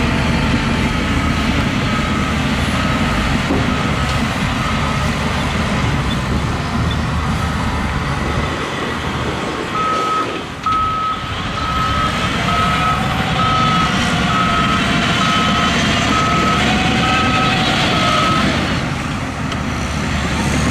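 Reverse warning alarm on heavy equipment beeping steadily at about one beep a second over diesel engines running. The beeps are faint at first and loud from about halfway through.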